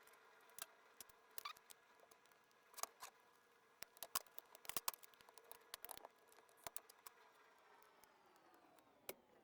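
Faint, irregular metallic clicks and scrapes of a hand tool working at the circlip spring on a camshaft scissor gear, in short clusters.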